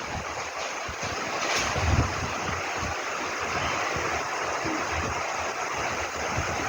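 Steady rushing noise, with a brief louder swell about two seconds in.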